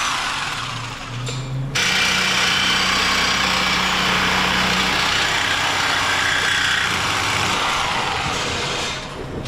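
Power cutting tool cutting through the steel exhaust pipe during an exhaust delete. A loud, steady grinding hiss stops briefly about a second and a half in, starts again and eases off near the end.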